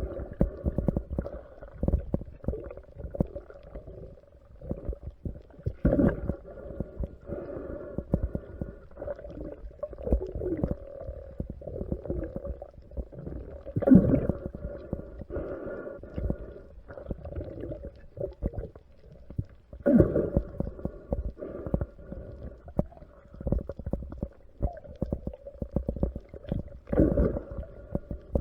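Muffled underwater sound as heard through a camera's waterproof housing: dense crackling and knocking with a steady hum beneath. Louder swells come about every six to eight seconds.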